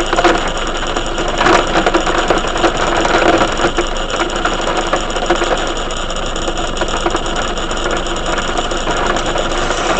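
Heavy rain falling steadily: a dense, even hiss dotted with many small ticks of drops striking.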